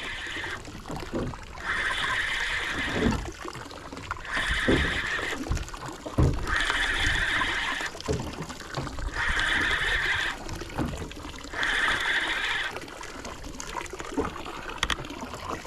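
Fishing reel being wound in repeated bursts, about a second of whirring every two and a half seconds, as a lure is worked back to the boat. Low water slaps against the hull come in between.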